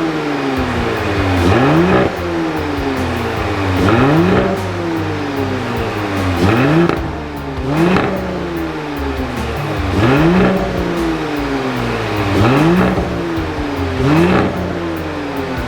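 Audi SQ5 Sportback's V6 through an aftermarket-tuned exhaust set to its loudest, revved again and again. It makes about seven rising rev sweeps, roughly one every two seconds, each dropping back before the next.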